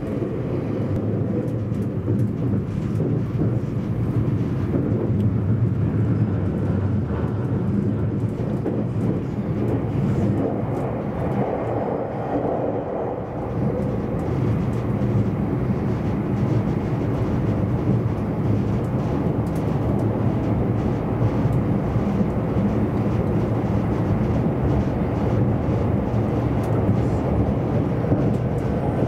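Steady running noise inside the passenger cabin of a JR East E257-500 series limited express electric train at speed: a continuous low rumble from the running gear, with no sudden knocks or changes.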